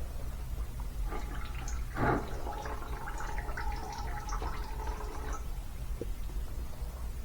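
Small clicks and light metallic rattling as the internals of a brake master cylinder are worked out of its bore, with a louder knock about two seconds in, over a steady low hum.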